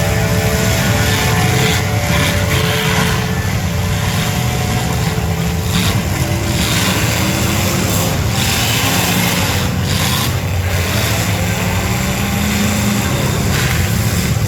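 Demolition derby cars' engines running loud and steady, several at once, with a dense low rumble.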